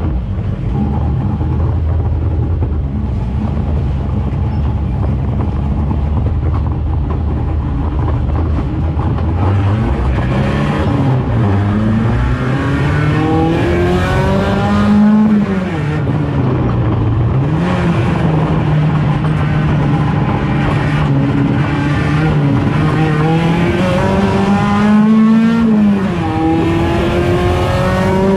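1.6-litre touring race car engine, droning steadily at first, then from about a third of the way in revving up hard and dropping back again and again as it accelerates and shifts gear.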